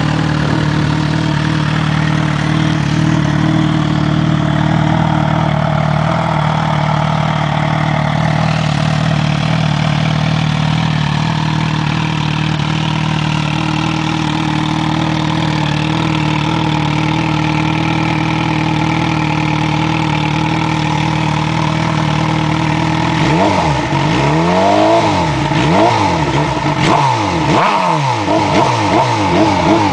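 Suzuki GSX-R1000 inline-four engine idling steadily through its exhaust, then after about twenty-three seconds revved in a run of quick throttle blips, the pitch rising and falling with each.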